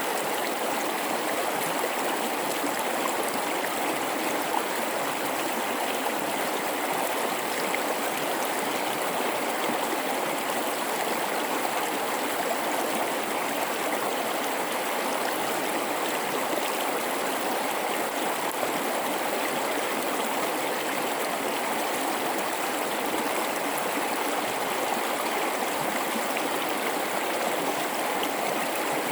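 A mountain river running over rocks in a gorge: a steady, even rush of water without breaks.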